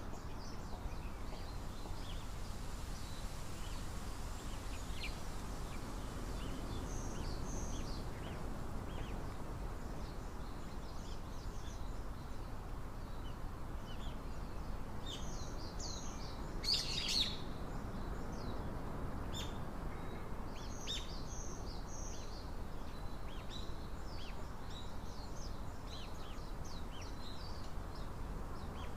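Small songbirds chirping in short, scattered calls, with a louder burst of chirps a little past halfway, over a steady low outdoor rumble.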